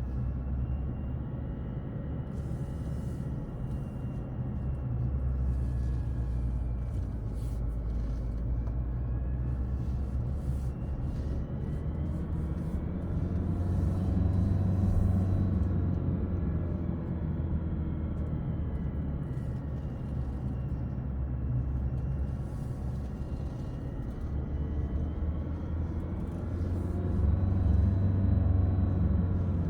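A car's engine and tyre noise heard from inside the cabin on a downhill drive: a steady low rumble with an engine hum whose pitch rises and falls slowly, swelling louder twice.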